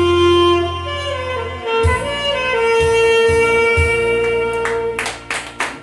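Saxophone playing a melody over an accompaniment track with bass and drum beats, ending on a long held note. Just after the note ends, a quick run of sharp hits sets in near the end.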